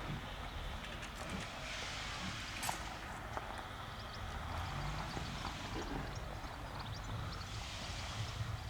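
Faint outdoor background noise with a low rumble, a hiss that swells and fades, and a few scattered small clicks.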